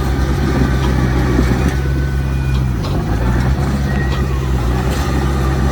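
Heavy diesel engine of earthmoving machinery running at steady speed, with the engine note dipping briefly about halfway through before picking back up.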